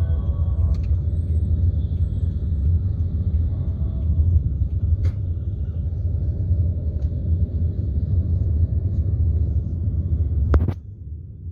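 Steady low rumble of a moving vehicle ride, cutting off suddenly with a click near the end.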